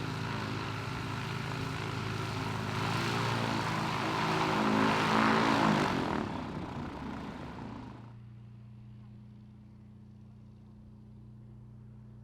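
Light propeller aircraft's piston engine passing close by, growing louder to a peak about five seconds in, its pitch dropping as it goes past. About eight seconds in the sound falls away sharply, leaving a low steady hum.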